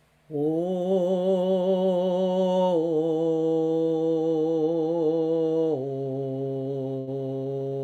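A woman's voice toning long, slow sustained notes low in her range, with a slight waver, stepping down in pitch twice: about three seconds in and again near six seconds.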